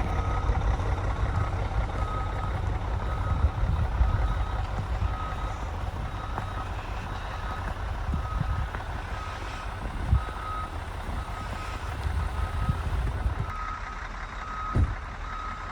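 A heavy vehicle's reversing alarm beeping steadily, about two beeps a second, over the low rumble of a diesel engine.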